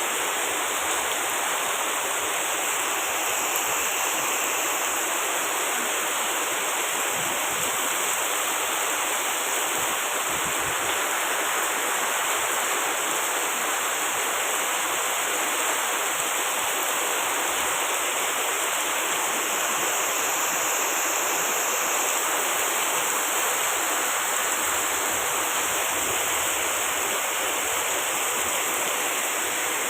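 Heavy rain falling steadily: a dense, even hiss with no separate drops standing out.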